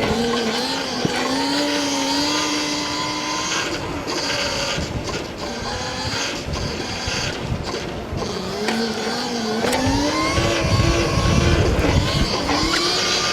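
Stomp Haywire electric dirt bike's motor whining, its pitch rising and falling with the throttle and climbing again about two-thirds of the way in. Heavy wind buffets the helmet-cam microphone.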